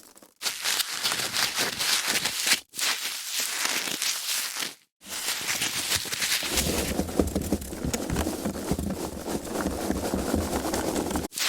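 Foam packaging being handled: dense rubbing and crackling, broken into separate stretches by brief silent gaps about 2.5 s in, about 5 s in and near the end. From about 6.5 s the handling is fuller and heavier in the low end.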